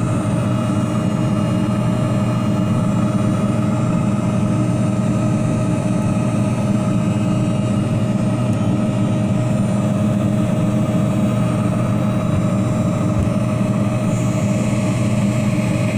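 Steady whir of a heat gun's fan blowing hot air onto the pellets in a pellet furnace's burn pot, mixed with the furnace's own blower running, to ignite the pellets.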